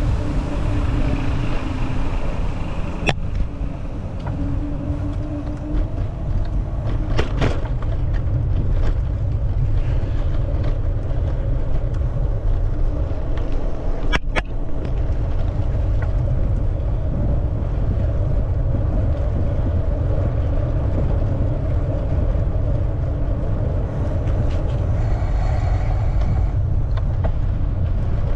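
Steady low rumble of wind and road noise from a moving bicycle, with traffic sounds mixed in and a few sharp clicks, about 3, 7 and 14 seconds in.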